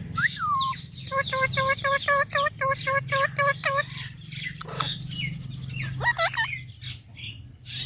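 Pet green parrot calling: a falling squawk, then a quick run of about a dozen short, evenly spaced notes at about four a second, and a few more squawks later on, over a steady low hum.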